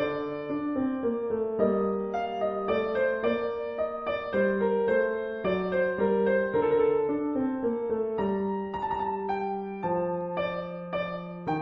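Background piano music: a gentle, slow melody of sustained notes.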